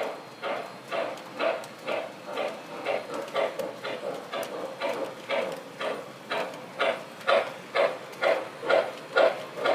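O gauge MTH model steam locomotive's sound system chuffing steadily, about two chuffs a second, the chuffs getting louder over the last few seconds.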